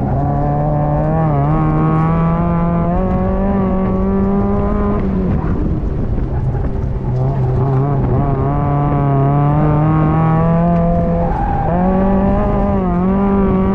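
Mazda Miata's four-cylinder engine pulling hard through an autocross run, heard from the open cockpit with the top down. Its pitch rises and dips with the throttle, breaks off briefly about five seconds in and comes back lower, then jumps higher again a little after eleven seconds.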